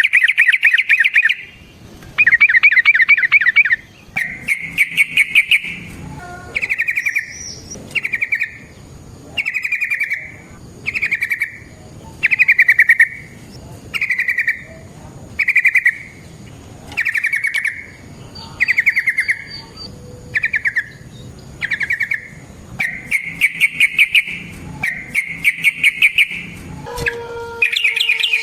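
Yellow-vented bulbul (trucukan) singing a long run of loud, rapid bubbling phrases, each about a second long and repeated with short gaps. The first and last phrases are longer. Near the end a lower, falling call comes in underneath.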